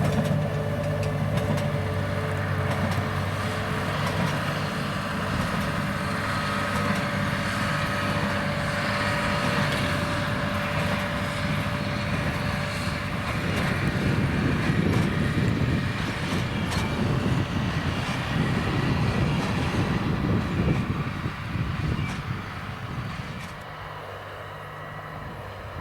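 John Deere 8330 tractor's six-cylinder diesel running steadily under load while pulling a working Krone BigPack square baler, with the baler's machinery clattering. The sound eases off somewhat near the end.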